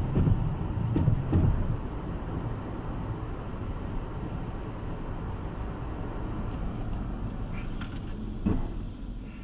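Steady road and engine rumble of a car driving, recorded by a dashcam. There are a few low thumps in the first two seconds and another short thump about eight and a half seconds in.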